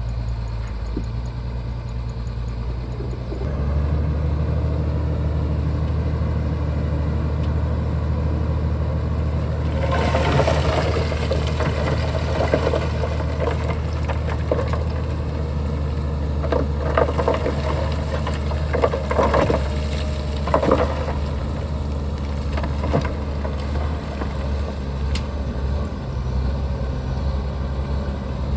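Shantui bulldozer's diesel engine running steadily, its low drone stepping up in level about three and a half seconds in. From about ten seconds on, irregular clattering and knocking sounds ride over the engine.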